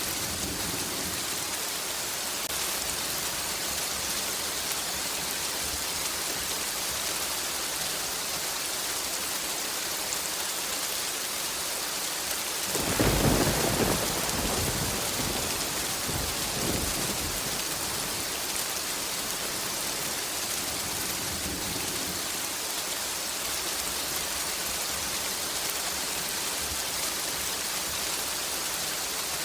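Steady rain falling, with a single clap of thunder about halfway through that breaks in suddenly as a loud low rumble and dies away over a few seconds, with a smaller after-rumble.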